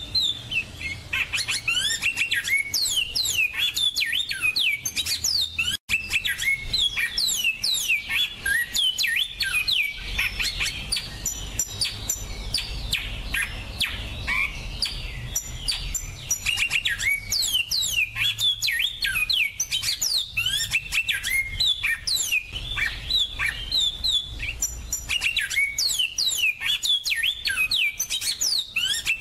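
Layered finch songs: yellow-fronted canary, black-throated canary and large-billed seed finch recordings mixed together, as dense, overlapping fast chirps and high whistled trills with no pause, broken only by a split-second gap about six seconds in.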